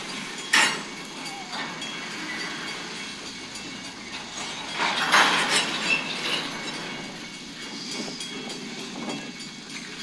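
A freight train's covered hopper cars rolling steadily past at a grade crossing, wheels running over the rails. A sharp, louder peak comes about half a second in, and a longer, louder stretch about five seconds in.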